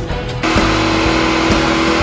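Rock music with guitar, over which a hot rod's engine is held at high revs with a loud rushing noise, as in a burnout, starting about half a second in. The engine pitch holds steady, and a second tone climbs slightly near the end.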